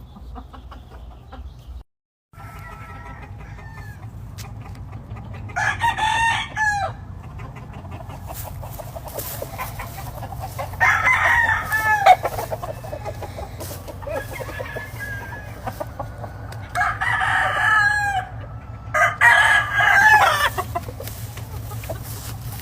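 Gamefowl roosters crowing four times, each crow lasting a second or so, with fainter clucking between them.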